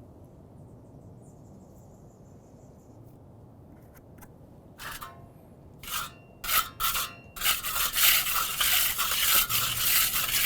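A hand tool scraping wet texture mix across a crack in a concrete pool deck. It starts with a few separate scrapes about halfway through, then turns into a few seconds of continuous scraping near the end.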